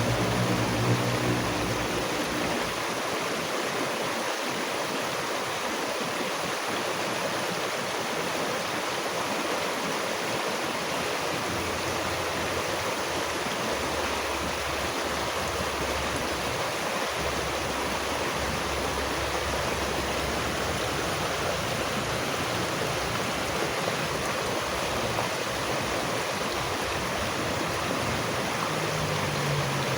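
Steady rushing of running water, like a stream, even and unbroken throughout. A low hum sits under it for the first couple of seconds, then stops.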